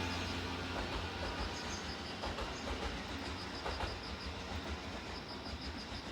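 An electric train passing over a level crossing and moving away, its rumble fading, with a few wheel clicks over rail joints. Through it comes a steady, evenly repeating high ringing, like a level-crossing warning bell.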